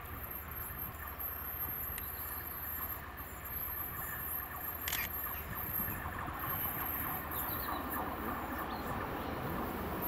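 Passenger train running past at a distance, a faint steady rumble that grows a little louder near the end, with insects chirping high and unevenly over it.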